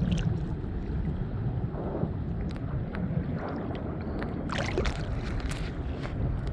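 Wind rumbling on the microphone over a steady wash of sea surf, with a few faint clicks.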